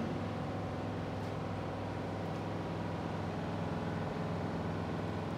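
A steady low mechanical hum that holds an even pitch throughout, with no bursts or arc crackle.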